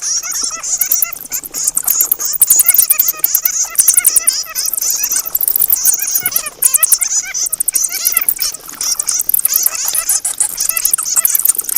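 Bats chittering and squeaking: a dense, unbroken run of rapid high-pitched chirps and clicks.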